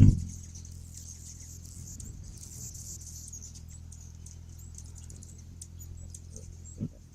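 Hummingbirds at a nectar feeder: rapid, high-pitched squeaky chips and twitters over a steady low hum, with a thump right at the start.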